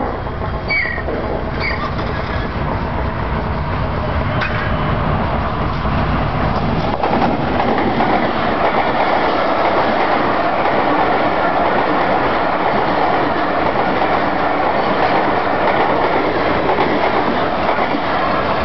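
Express passenger train hauled by Pakistan Railways locomotive 6143, approaching and then passing close by at speed. The rumble builds over the first several seconds, then the coaches run past in a steady loud rush of wheels on rails.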